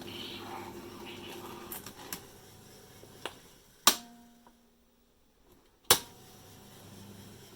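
Tape recorder controls clicking: a steady hum dies away over the first two seconds, then a few light clicks come before two loud, sharp clunks about two seconds apart.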